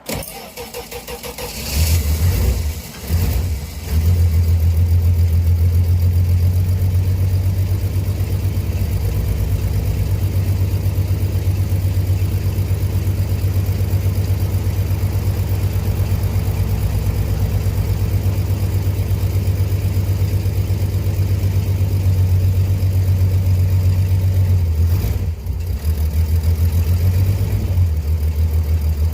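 1970 Dodge Swinger's Slant Six inline-six cranking over on a cold start at about -4°. It catches about two seconds in, stumbles briefly, then settles into a steady run with a short stumble near the end.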